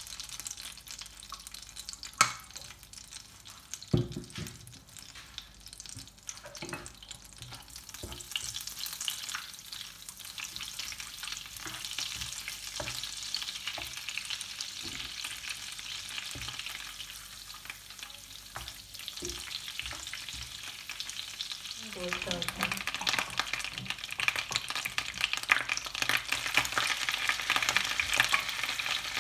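Butter and oil sizzling in a nonstick frying pan, with a few sharp knocks and the scrape of a spatula. About 22 seconds in, pieces of boiled beef go into the hot fat and the frying gets much louder and more crackly.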